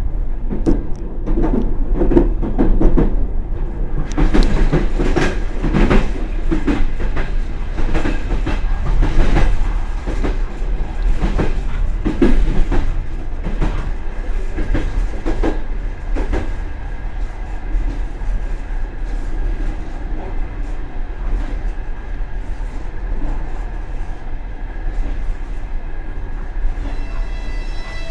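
Express passenger train running, heard from the rear vestibule of its last carriage: a steady low rumble with irregular clatter and knocks of the wheels over rail joints and points, busiest in the first half. A high pitched ringing tone comes in near the end.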